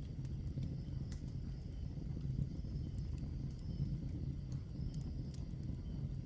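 Wood fire burning in a fireplace: a steady low rumble with scattered sharp crackles and pops from the burning logs, about half a dozen in a few seconds.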